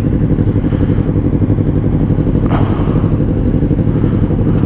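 Sportbike engine idling steadily with an even, rapid pulse, and a short hiss about halfway through.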